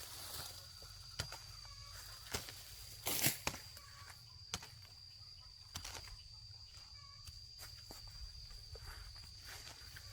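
A steady high-pitched insect drone, with scattered knocks and rustles of someone at work; the loudest clatter comes about three seconds in.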